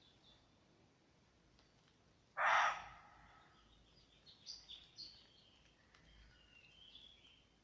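An animal's harsh, noisy screech about two and a half seconds in, followed a couple of seconds later by several shorter, higher calls and then faint chirps.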